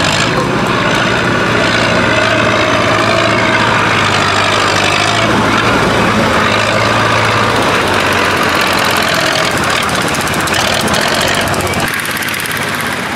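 Tractor engine running loud and steady, easing off a little near the end.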